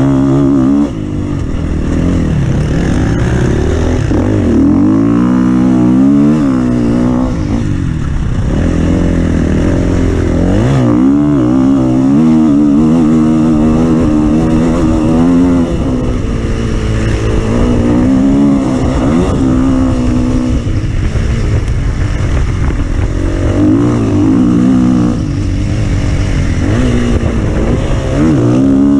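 Off-road vehicle engine revving up and down again and again, its pitch climbing and dropping in repeated surges over a steady low rumble.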